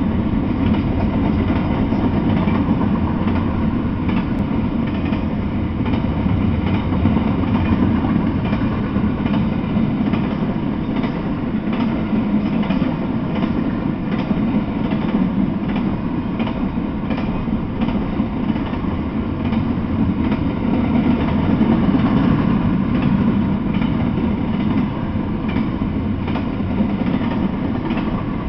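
Double-stack intermodal freight train cars rolling past: a steady rumble of steel wheels on rail with faint repeated clicks as the wheels cross the rail joints.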